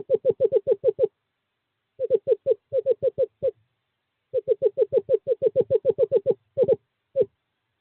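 Male screech owl calling in runs of short, evenly spaced hooting notes, about seven a second, in three bursts with pauses between and one lone note near the end. It is a courtship call to a female.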